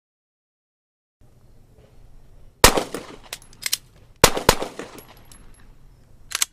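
Handgun shots in a short string: one shot, a quick pair about a second and a half later, and another near the end, with fainter sharp clicks between.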